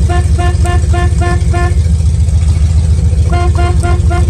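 Ford Mustang II Cobra II's horn tooted in quick short beeps, about three a second: a run of about six, a pause of a second and a half, then another run of about five, over a steady low rumble.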